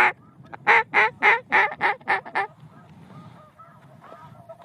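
A quick run of about eight loud duck quacks in under two seconds, then stopping, while a flock of geese keeps honking faintly in the distance.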